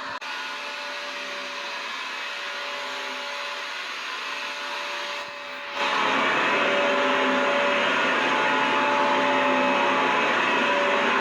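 Vacuum cleaner motor running continuously: a steady rushing whir with a few held whining tones. About six seconds in it turns louder and fuller and stays that way.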